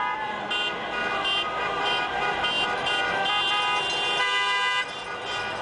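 Many horns honking at once in an overlapping din, individual blasts starting and stopping, with a few shouts from a celebrating crowd.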